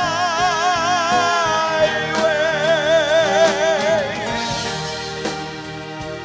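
Live singer holding one long note with wide vibrato over band accompaniment; the voice stops about four seconds in and the instruments play on.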